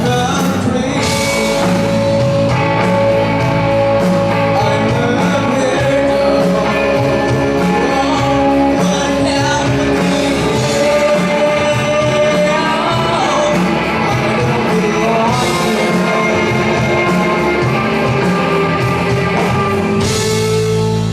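Live rock band playing with a lead vocalist singing over electric guitar, bass and drums.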